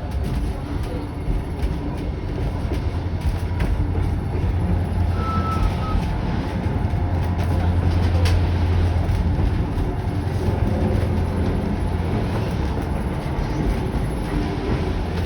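Kuranda Scenic Railway passenger train running, a steady low rumble of carriages on the track. A short high-pitched tone sounds about five seconds in, and a single sharp click about eight seconds in.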